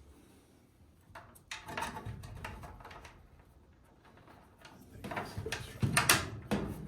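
Plastic parts of an Aprilaire whole-house humidifier being handled and fitted back together: rattling, scraping and clicks, with a louder clatter of sharp knocks near the end.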